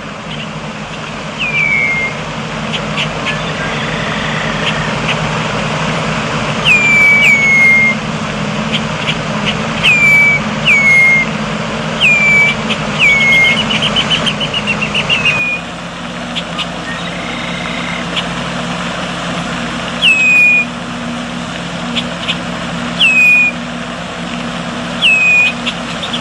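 A bird calling over and over: short whistled calls that drop in pitch, one every second or two, with a couple of quick chattering trills. A steady low hum, like a running engine or traffic, lies underneath.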